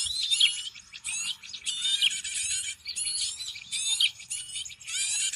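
A dense, busy chorus of small birds chirping and whistling over one another, quick sweeping notes with only brief gaps: a bird-lure (pikat) recording of birds in a commotion, used to draw other birds in.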